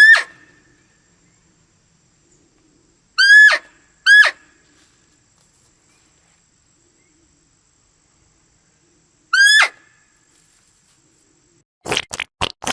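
Four short, high-pitched animal calls, each rising briefly and then dropping in pitch. The second and third come close together. A few short sharp sounds follow near the end.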